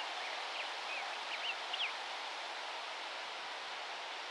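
Several faint, short bird chirps in the first two seconds over a steady outdoor hiss.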